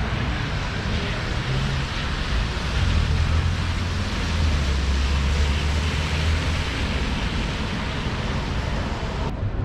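Steady street noise with a deep rumble of passing traffic swelling for about four seconds in the middle. The hiss changes abruptly just before the end.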